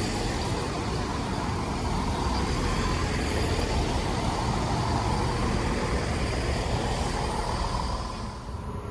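Class 170 Turbostar diesel multiple unit running through the station, a steady train noise that drops away shortly before the end.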